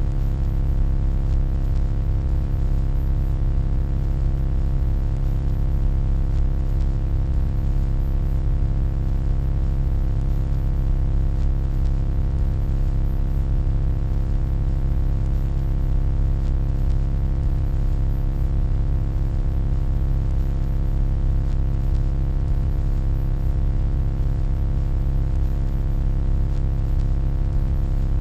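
A steady, unchanging electronic hum: a deep hum with a stack of fainter steady tones above it and a faint, very high thin whine.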